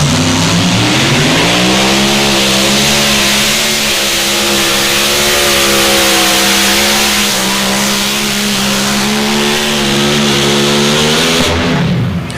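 Mini modified pulling tractor's engine at full throttle during a pull. It climbs in pitch over the first couple of seconds, holds a steady high pitch, then drops and shuts off near the end.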